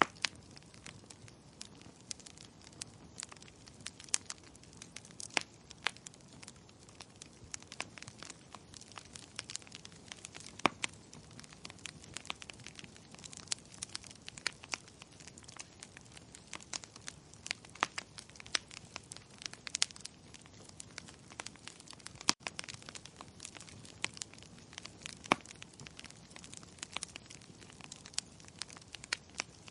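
Wood fire crackling steadily: a soft hiss with frequent irregular sharp pops and snaps.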